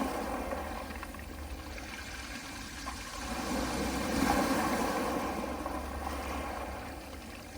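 Gentle sea waves washing onto a pebble beach: the surf swells with an incoming wave about four seconds in, then draws back and quietens.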